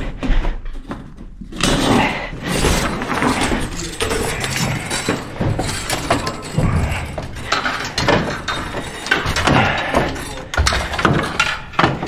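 Continuous clattering and clinking of parts being handled, with many small knocks.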